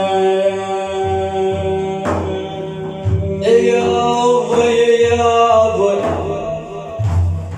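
Male voices holding long sung notes of an Iraqi manqabah, the devotional chant in praise of the Prophet. The pitch steps up about three and a half seconds in. A steady low drum beat pulses underneath.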